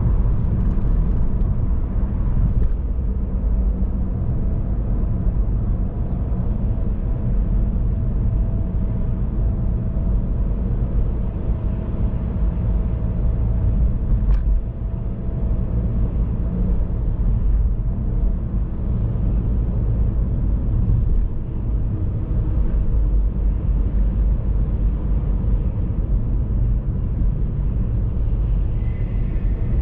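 A car on the move: a steady low rumble of road and engine noise, with one brief click about halfway through.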